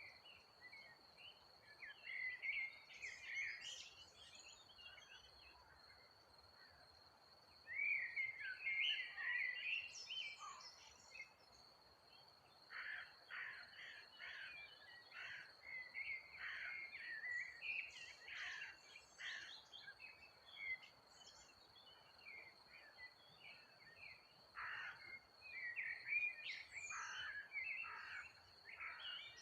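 Songbirds chirping and calling in irregular bouts of short, rapid notes, over a steady high thin tone.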